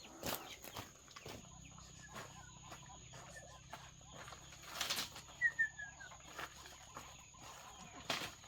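Chickens moving about and pecking, with a short burst of wing flapping about five seconds in and a few quick high chirps just after.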